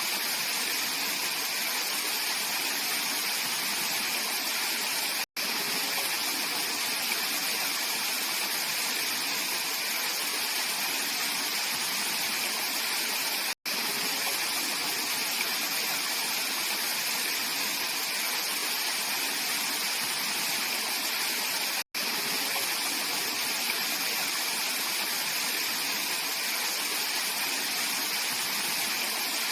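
Clear mountain valley stream flowing, a steady continuous rush of water. The sound cuts out for an instant three times, about eight seconds apart.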